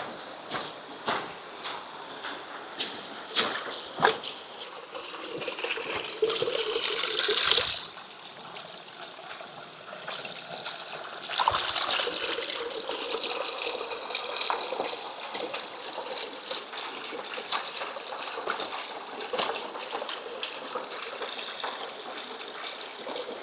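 Steady flowing water of a creek, coming in about eleven seconds in and running on evenly. Before it come evenly spaced steps, then a louder rush of noise that cuts off abruptly.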